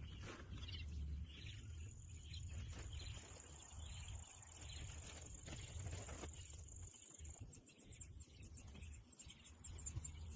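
Faint outdoor ambience: an insect trills on one high, steady note for several seconds, then breaks into short repeated chirps, over a low rumble.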